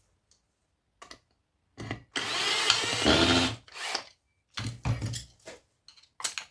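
Cordless drill-driver running for about a second and a half, backing out a screw, with clicks and knocks of small metal parts being handled before and after.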